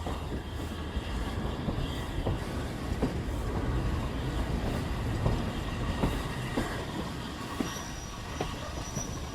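A train running on rails: a steady low noise with sharp clicks from the wheels about once a second, and a thin high squeal near the end.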